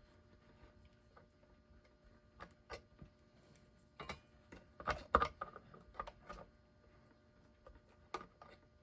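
Pliers gripping and turning a tight nut on a clock's threaded post: scattered small metallic clicks and scrapes, busiest and loudest about four to five seconds in, as the nut, seized and soaked in penetrating oil, works loose.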